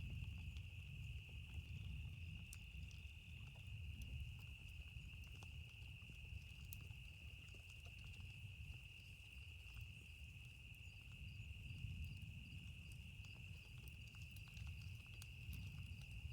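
Campfire crackling with scattered small pops, over a steady high-pitched insect drone, likely crickets, and a low, swelling rumble of distant thunder.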